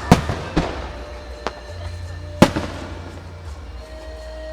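Fireworks bursting in the sky: four sharp bangs in the first two and a half seconds, the last the loudest, over background music.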